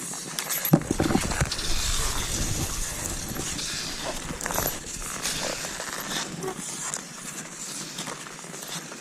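Cross-country skis sliding and scraping over snow, with ski poles crunching in at each stride, making a run of short crunches and scrapes. There is a sharp knock near the start and a low rumble through the middle.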